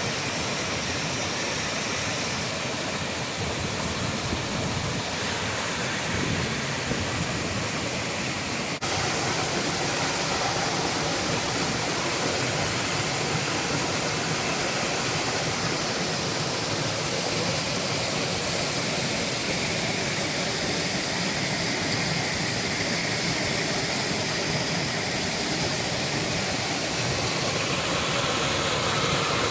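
Steady rush of falling water from a waterfall. About nine seconds in there is a sharp click and a slight change in the rush, where the recording cuts to another take.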